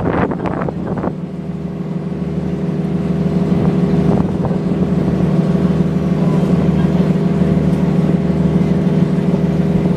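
River cruise ship's engine running with a steady low hum that grows slightly louder after the first couple of seconds.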